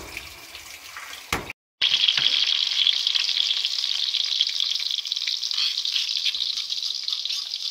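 A knock of a knife on a wooden cutting board, then food frying in hot oil in a wok over a gas flame: a steady, dense sizzle that starts suddenly about two seconds in.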